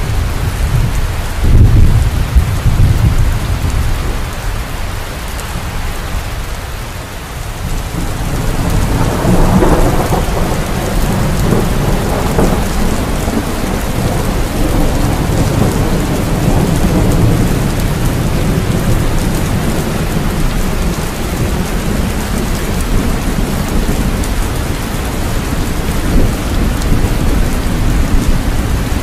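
Steady rain with thunder: a loud clap about a second and a half in, then a long rolling rumble that builds from about nine seconds and slowly dies away under the rain.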